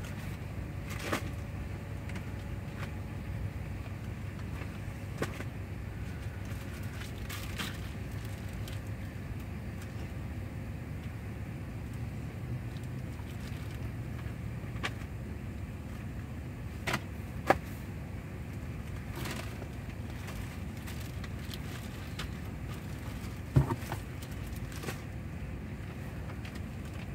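Steady low hum of a car idling, heard from inside the cabin, with a few scattered knocks and clicks, the sharpest about two-thirds of the way through and again near the end.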